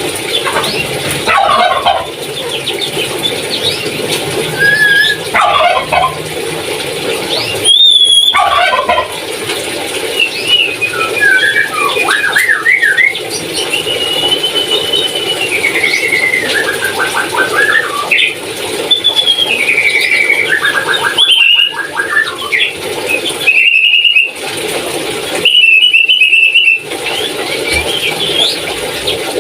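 Papuan lory (nuri parrot) calling on and off: a run of shrill whistles, pitch glides and rapid chattering notes, with louder screeching calls about eight seconds in and twice near the end.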